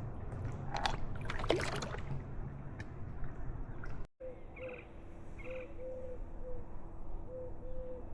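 Water sloshing and splashing against a kayak, with a couple of sharper splashes in the first two seconds. After a sudden cut, a bird calls in runs of short, low, repeated notes.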